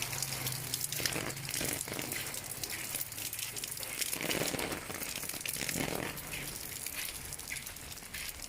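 Rain with a dense crackling patter of drops hitting close to the microphone, and two duller swishes about four and six seconds in.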